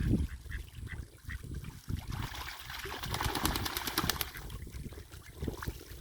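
Young mallards at a pool calling with short quacks, with splashing and dabbling water, busiest around the middle.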